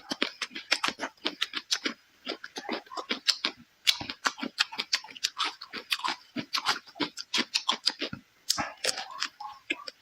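Close-miked chewing and crunching of crisp small chili peppers: rapid, irregular crackly bites and chews with brief pauses.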